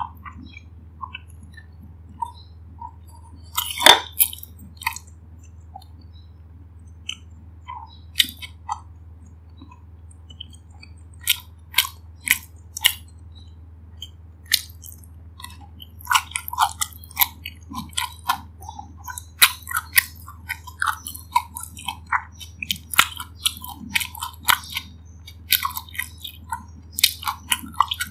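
Close-miked eating sounds of a person chewing food with the mouth closed, a run of short wet clicks. They come sparsely at first, with one louder click about four seconds in, then quicker and denser through the second half.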